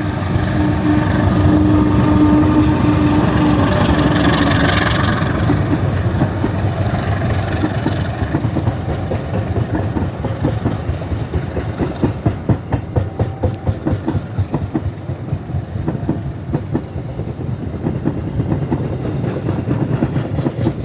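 A train hauled by a KAI CC206 diesel-electric locomotive running past, with a loud steady rumble. A steady tone is heard in the first few seconds, then wheels clack rhythmically over the rail joints from about a third of the way in.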